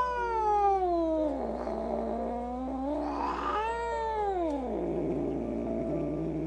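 Kitten giving two long, drawn-out meows. The first falls slowly in pitch and ends a little under two seconds in; the second starts about three and a half seconds in, rising and then falling.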